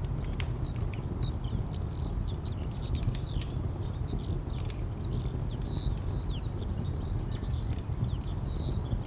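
Wood fire crackling with irregular sharp pops, over a steady low rumble of distant traffic, with small birds chirping busily.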